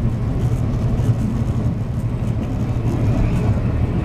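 Steady drone of a semi truck's engine and tyre and road noise, heard inside the cab while cruising at highway speed.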